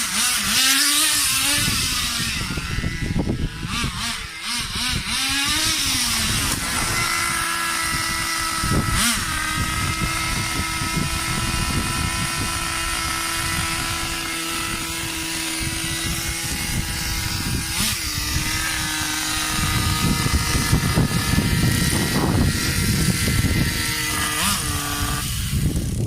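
Small two-stroke nitro glow engine of an RC buggy (Thunder Tiger 15 Pro) revving up and down, then running at a steady high pitch for most of the time, with two sharp knocks along the way. The steady engine note stops near the end.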